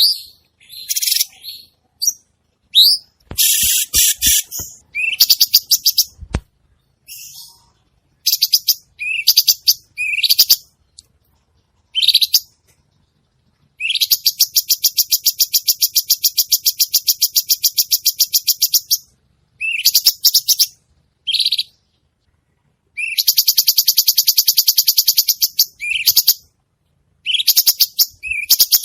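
Cucak cungkok songbird singing in full voice: short, sharp rising whistled notes mixed with long, fast chattering trills, the longest lasting about five seconds from around fourteen seconds in. A few soft knocks are heard about four to six seconds in.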